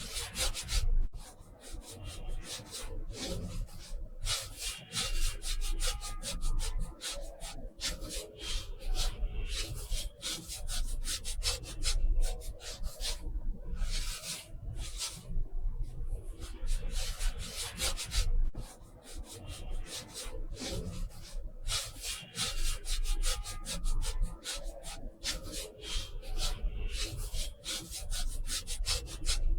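Quick scratchy strokes of a drawing or painting tool across paper, in runs of a few strokes a second with short pauses between.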